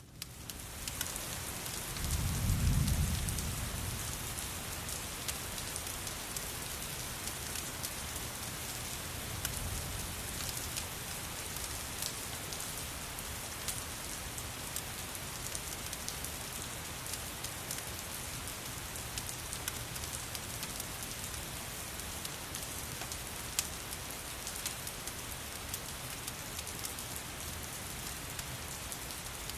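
Steady rain hiss, with fine crackling ticks scattered through it, from a rain-and-fireplace ambience mix. A brief low rumble rises and fades about two seconds in.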